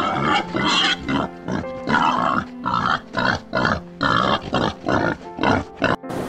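Warthog grunting in a fast run of short calls, about three a second, coming quicker and shorter near the end, over background music.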